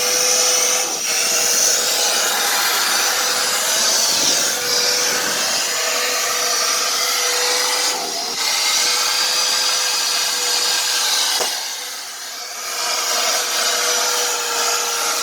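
A small electric motor running steadily, giving a high hiss over a steady whine. It briefly eases off a few times.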